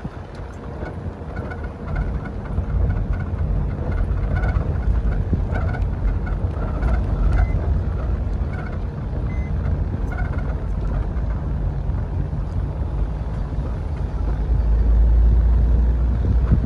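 Vehicle driving slowly along a forest road: a steady low rumble of tyres and running gear with some wind noise, louder near the end and then dropping off sharply.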